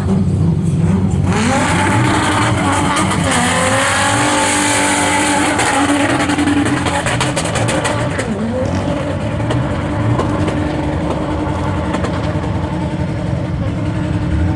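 Car engine running hard at high revs while the tyres screech through a drift, the screech starting about a second in and easing somewhat in the second half, the engine pitch wavering up and down.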